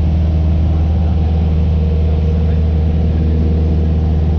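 Airplane engine running with a steady, low drone that does not change.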